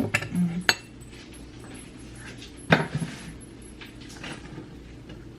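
Kitchen handling sounds while fruit is peeled and prepared: a click a little under a second in, and a sharp knock like something set down on a counter about two and three-quarter seconds in, with faint scraping between. A short voiced hum is heard at the very start.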